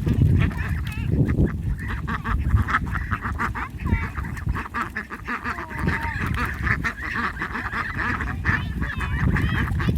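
A flock of domestic ducks calling and quacking in a rapid, overlapping chatter, over a low rumbling noise.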